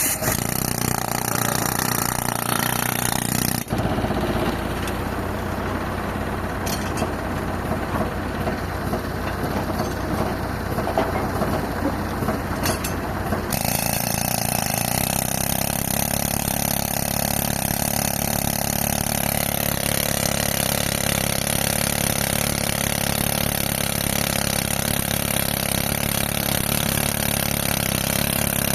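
Tractor engine running steadily under load, driving an air compressor for rock drilling. The sound changes abruptly about 4 seconds in, carries a rapid rattling texture until about 13 seconds in, then settles back to the steady engine run.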